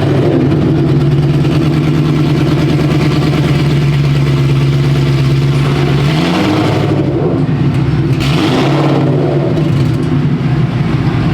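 2013 Mustang GT's 5.0 Coyote V8 running with its exhaust dumped straight down after the X-pipe, no mufflers: held at a steady speed for about six seconds, then revved up and back down, with more revs later on.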